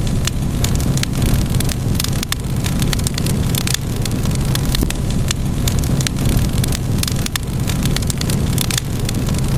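Wood fire crackling, with many irregular sharp pops and snaps over a steady low rumble of the burning fire.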